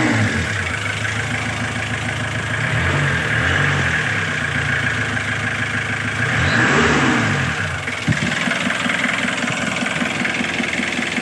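Kia Bongo's diesel engine running after its glow plug heater fault was fixed, revved up and back down three times, then settling to a steady idle after a sharp click about eight seconds in.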